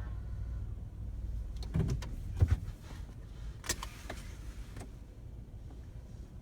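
Low steady rumble inside a car's cabin, with a humming motor that stops about half a second in and a few knocks and clicks after it.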